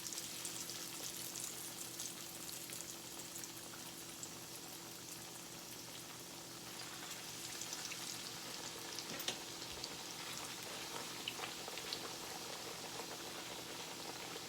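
Breaded chicken breast frying in hot oil in a pan: a steady sizzle with scattered small pops and crackles, over a faint steady hum.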